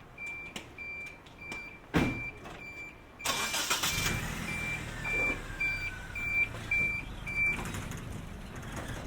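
A vehicle's reversing alarm beeping about twice a second, with a sharp knock about two seconds in and louder engine and vehicle noise from about three seconds in. The beeping stops near the end.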